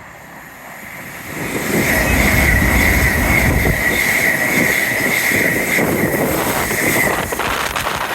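Passenger train passing through, building over about a second to a loud rush with a steady high whine, and turning choppier near the end.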